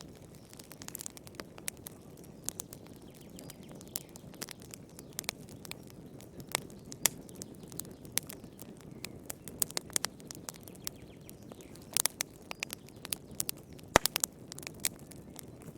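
Wood fire crackling in a fireplace: irregular sharp pops and snaps over a low steady hiss, with a cluster of pops about 12 seconds in and the loudest snap about 14 seconds in.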